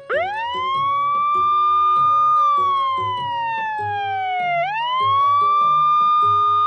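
Ambulance siren wailing: it sweeps up quickly, holds, slides slowly down, then sweeps up and holds again. Children's background music with a steady beat plays underneath.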